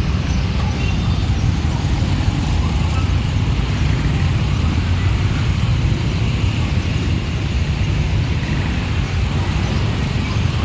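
Heavy city street traffic: motorbike, car and tuk-tuk engines running together as a continuous low rumble.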